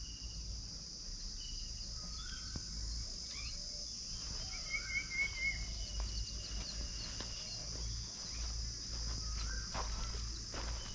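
Steady high-pitched insect chirring, with scattered short bird calls over it: a few brief rising chirps and a warbling call about five seconds in.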